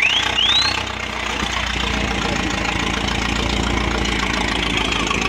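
Engine of a vintage open-top car running at low speed as it drives slowly past, a steady low drone. Two quick rising whistles sound in the first second.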